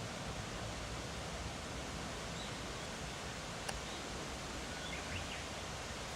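Steady outdoor background hiss with a few faint, short bird chirps and a single sharp click a little past the middle.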